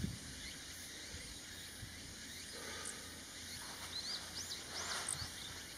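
Quiet outdoor ambience with a few faint, short bird chirps about four to five seconds in.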